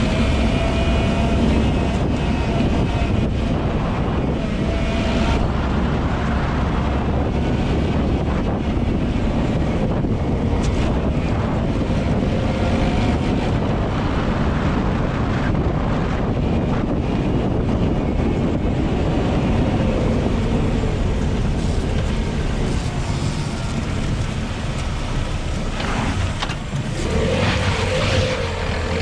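LADA Vesta SW Cross driving over a badly broken dirt road: a continuous rumble of tyres and suspension working through deep bumps, with scattered thumps as the wheels hit holes and the engine running under it. No strut knocking comes through, which the owner takes as proof that the updated SAAZ struts work well.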